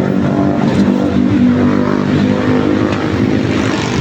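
A 2 hp air compressor running steadily on a test run, a loud continuous motor and pump drone with no change in pitch.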